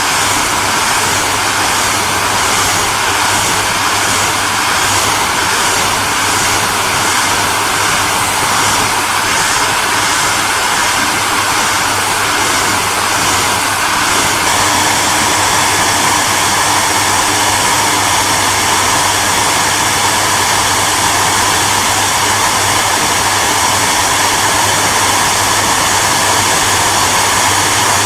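Electric hairdryer running steadily: a continuous rush of blown air over a low motor hum. About halfway through, the hiss changes slightly and gets a little louder.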